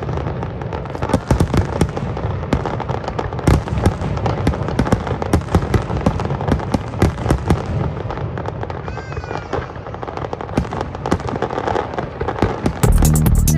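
Fireworks display: a dense, irregular run of bangs and crackling bursts. Near the end, electronic dance music with a steady beat cuts in abruptly.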